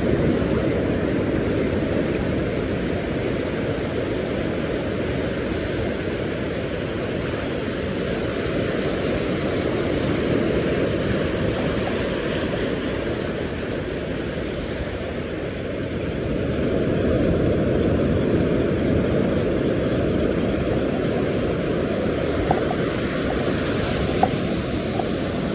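Wind buffeting the microphone, a steady low rumble that swells and eases over several seconds, with a couple of faint clicks near the end.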